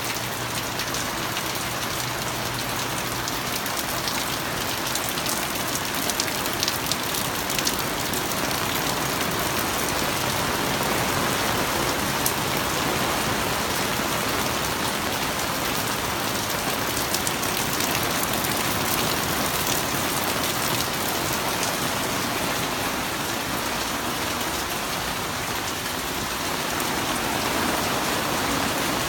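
Steady, heavy rain falling: an even hiss of water with many small drop ticks on a hard surface.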